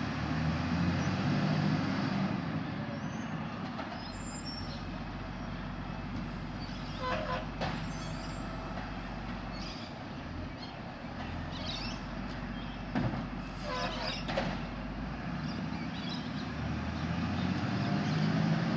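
Garbage truck engine running at the kerb, revving up near the start and again near the end while the lifting arm works. A few short knocks and squeaks sound about a third and two-thirds of the way through.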